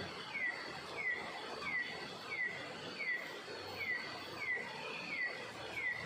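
A bird calling over and over, a short downward-sliding note repeated evenly about every 0.7 seconds, with a faint steady high whine behind it.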